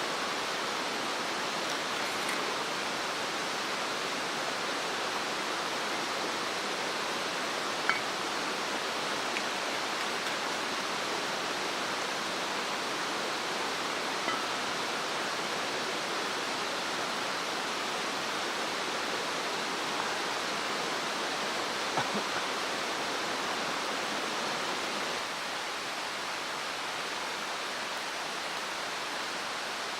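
Mountain stream rushing steadily, with a few sharp clicks or pops standing out now and then.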